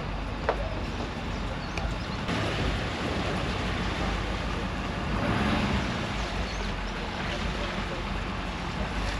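Pickup truck driving while towing a loaded trailer: steady engine hum and road noise, which get louder about two seconds in and swell again around the middle.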